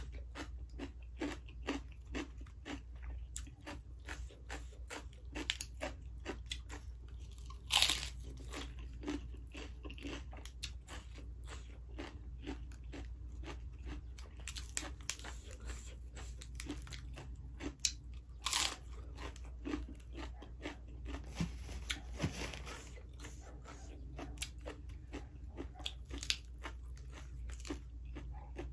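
A person biting and chewing crisp raw lettuce leaves: a steady run of wet crunches, with louder crisp bites about 8 and 18 seconds in.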